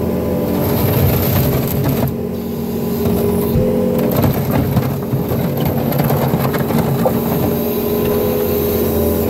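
New Holland L230 skid steer's diesel engine running steadily under load, with the rough, uneven scrape of the bucket pushing mud and dirt across concrete.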